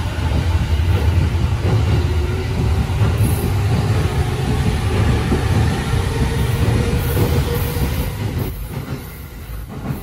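JR 209 series electric commuter train moving out along the platform, its wheels on the rails giving a steady low rumble that fades from about eight seconds in as the train draws away.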